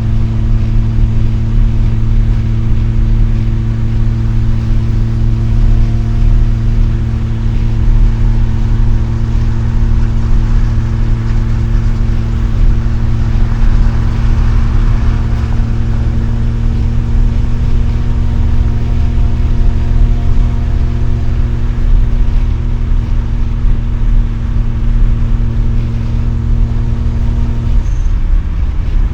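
Mazda RX-7's two-rotor rotary engine running through an RE Amemiya Dolphin Tail 90 Curl exhaust at a steady cruise, a constant even-pitched drone with road rumble underneath, heard from inside the cabin with the windows down. Near the end the tone breaks briefly, then resumes at the same pitch.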